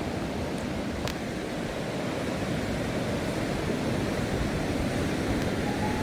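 Steady rushing of water, even and unbroken, with a light click about a second in.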